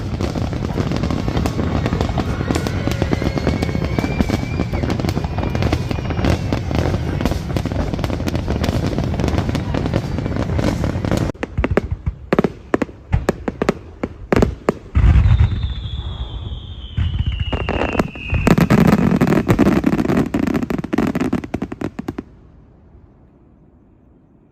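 Fireworks: a dense run of rapid crackling bangs, then separate bangs and a heavy boom about fifteen seconds in, followed by a falling whistle. Another burst of crackling follows, and the sound dies away to a faint rumble near the end.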